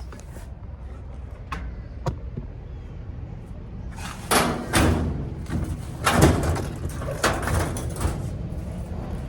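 Series of knocks and bangs from heavy household items being shifted and loaded, over a steady low rumble; the bangs come from about four seconds in, the loudest a little after six seconds.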